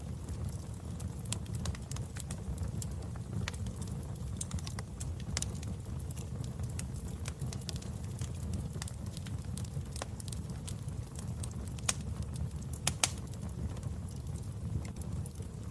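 Wood fire burning in a fireplace: a steady low rumble with irregular sharp crackles and pops of the burning logs, a couple of louder pops towards the end.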